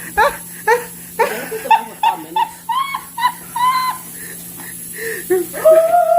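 Several people laughing hard in quick, rhythmic ha-ha pulses, ending in one long drawn-out high cry.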